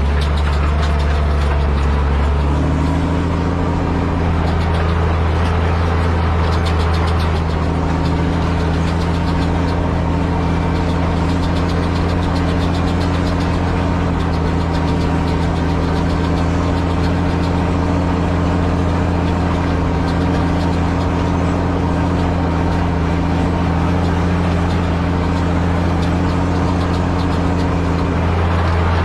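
Same Titan 160 tractor's six-cylinder diesel engine running steadily, its speed stepping up a little about two to three seconds in and then holding.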